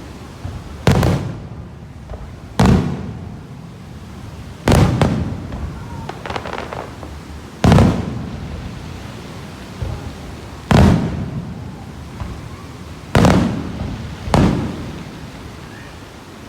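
Fireworks display: about eight shells burst one after another, each a sharp bang trailing off, one to three seconds apart.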